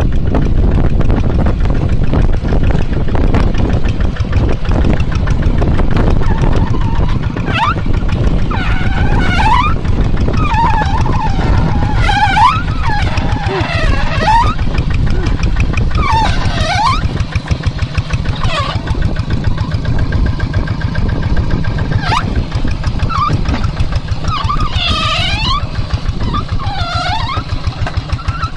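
Kubota tractor's diesel engine running steadily under load while plowing a wet rice paddy. Near the end its beat comes through as separate pulses, several a second. Short high gliding squeaks come and go over the engine several times.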